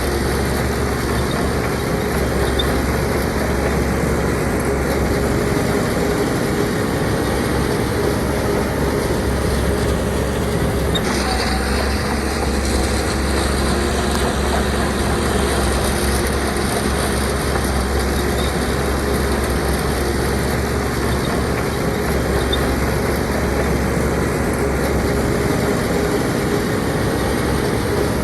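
Heavy diesel earthmoving machinery running steadily, a deep engine drone with a faint steady hum above it and a brief change in the noise about eleven seconds in.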